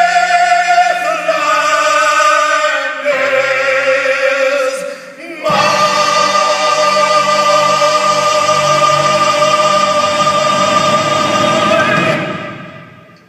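Sung music with accompaniment closing out a song: sustained vocal notes with vibrato, then, after a brief dip about five seconds in, one long held final chord that fades away near the end.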